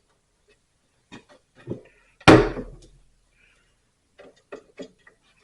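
Scattered light clicks and knocks, with one louder knock a little over two seconds in, from handling tools and equipment at an electrical panel.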